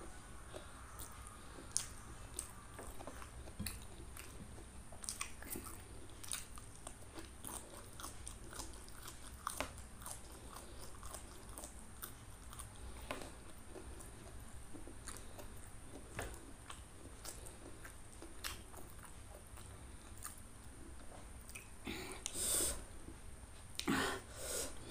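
Close-up mouth sounds of a person eating: chewing and biting with small crunches and wet clicks, as she eats rice with raw green vegetable pods and spicy fried quail eggs. Two louder noises come near the end.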